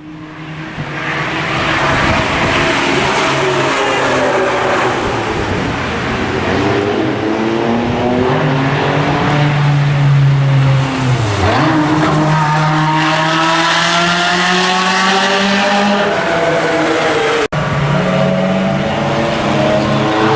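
Ferrari F355 Challenge's V8 on a racing exhaust, revving on track. The pitch rises and falls through the gears, dips sharply and climbs again about eleven seconds in, then rises steadily under acceleration. It fades in at the start and breaks off for an instant near the end.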